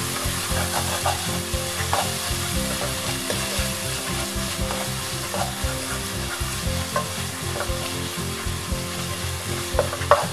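Onion-tomato masala with spice powders sizzling in a nonstick pan while a wooden spatula stirs it, with short irregular scrapes and taps of the spatula against the pan. The spices are being fried until their raw smell goes.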